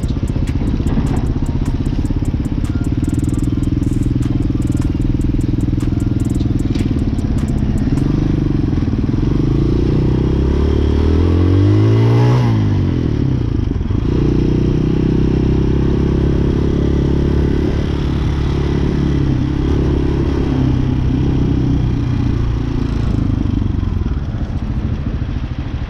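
Hawk 250 motorcycle engine running steadily, with wind buffeting for the first several seconds. About twelve seconds in, another vehicle passes, its engine note rising and then falling as it goes by.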